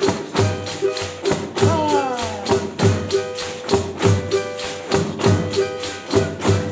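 Pandeiros, Brazilian frame drums with jingles, played together as an ensemble in a steady rhythmic groove, with regular accented strikes several times a second.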